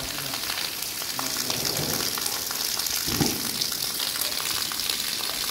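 Steady rain falling: an even hiss of drops with scattered small patters, and a brief low sound about three seconds in.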